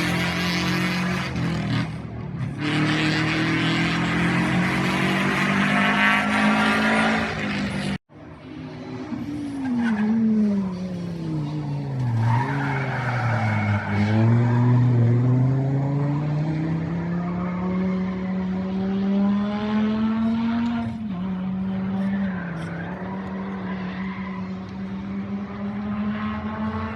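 Rally car engines at full race pace: one car at high revs, then after a sudden cut a second car whose engine note drops as it slows for the corner and rises again as it accelerates away hard.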